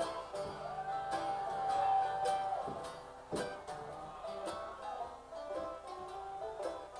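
Live acoustic music on plucked string instruments with a banjo-like twang and regular picked notes. A long held note sounds from about a second in to nearly three seconds.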